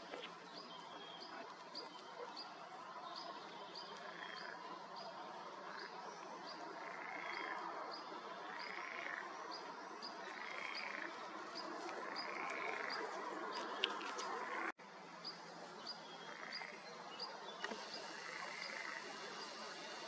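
Birdsong: a short high note repeated steadily about once every two-thirds of a second, with lower rising-and-falling calls every couple of seconds. The sound drops out for an instant about three-quarters of the way through.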